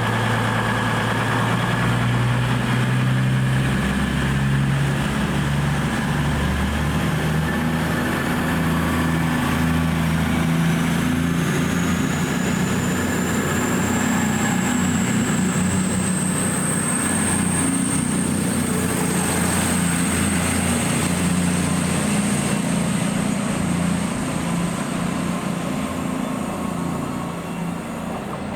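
A train running at the station: a deep diesel engine note that shifts in pitch in steps, with a high whine rising in pitch and then holding steady. The sound eases off near the end.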